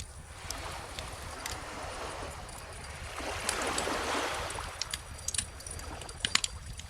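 Wood fire crackling with scattered sharp pops over calm ocean waves. A wave washes in and swells about halfway through, then recedes, and a quick cluster of louder pops comes near the end.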